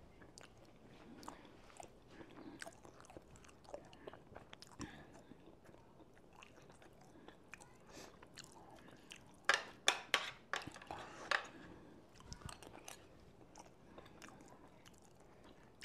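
A person chewing and biting food close to the microphone, with faint mouth clicks throughout and a brief run of louder, sharper clicks about two-thirds of the way through.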